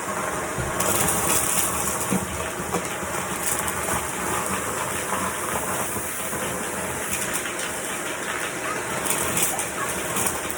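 Vacuum cleaner running steadily, a continuous whooshing drone whose high hiss grows brighter for a couple of seconds about a second in and again near the end.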